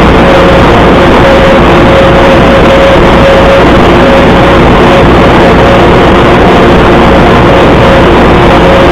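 Fordson Super Major tractor's diesel engine running steadily, loud and unchanging, with a steady whine.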